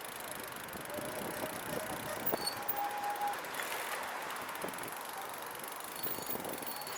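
Steady road and wind noise from riding a recumbent trike, with a short high squeak about two and a half seconds in.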